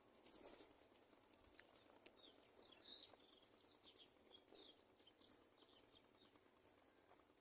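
Faint, high chirps of a small bird: a run of short quick notes in a few clusters over about three seconds, with a soft rustle near the start and a single click about two seconds in.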